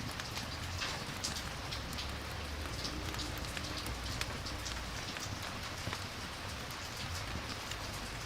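Steady rain falling, an even hiss dotted with scattered sharp ticks of drops.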